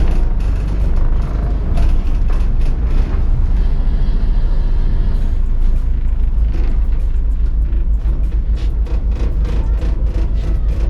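Tourist boat's engine running with a steady low rumble while the boat comes in to moor at the landing. From about six seconds in, regular sharp clicks join it, about four a second.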